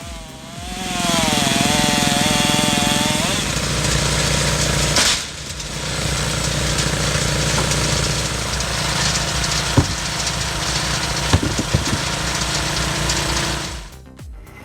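Firewood processing machinery running steadily: an engine-driven log splitter and conveyor, with a few sharp knocks. The sound drops briefly about five seconds in.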